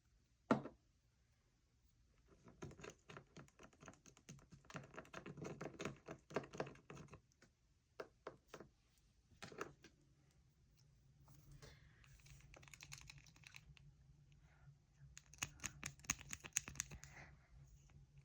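Faint runs of quick, light clicking and tapping from a stirring stick knocking against the inside of a measuring cup as food colouring is stirred into oil, in three bursts with short pauses between.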